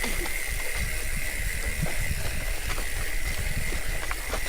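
Hardtail mountain bike riding downhill on a wet trail, heard through a chest-mounted action camera. There is a low wind rumble on the microphone, tyre and trail noise with small clicks and rattles, and a thin steady whine.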